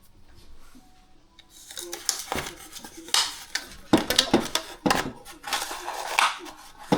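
Hands handling small items on a work surface: a busy run of sharp clicks, taps and rustles starting about a second and a half in.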